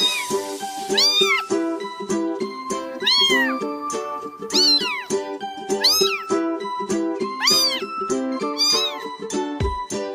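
A cat meowing about six times at fairly even intervals, each meow rising and then falling in pitch, over light background music.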